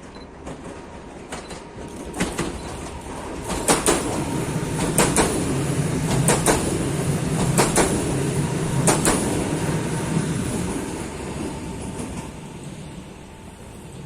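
PKP Intercity ED74 electric multiple unit passing by, its wheels clicking over rail joints in pairs about every second and a quarter. The sound builds to a peak near the middle and then fades.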